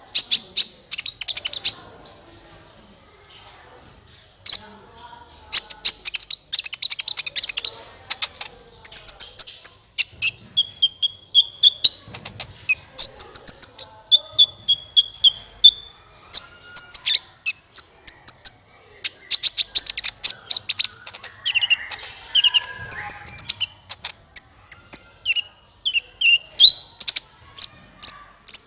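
Sunbird song, the 'kolibri ninja' of Indonesian bird-keepers, played as a lure call. It comes in rapid runs of high, sharp chirps and trills mixed with short clear whistles, with a pause of about two seconds near the start.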